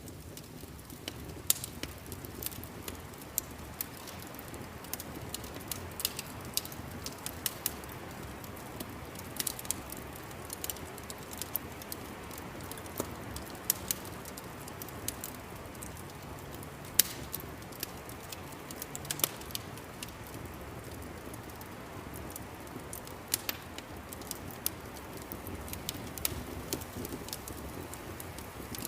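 Wood fire crackling in a fireplace: a steady low hiss and rumble of flames with irregular sharp pops and crackles scattered throughout.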